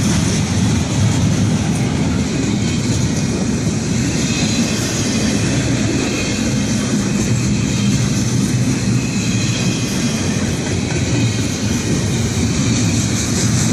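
Norfolk Southern freight train cars rolling steadily past, with the rumble and clatter of wheels on the rail and a high hiss from the wheels.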